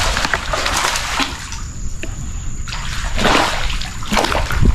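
Water splashing and sloshing in irregular bursts as a hooked bluegill thrashes at the surface while it is reeled up to the paddle board.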